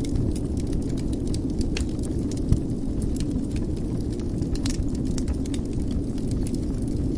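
Wood fire burning in a fireplace: a steady low rumble of flames with scattered crackles and small pops, one sharper pop about two and a half seconds in.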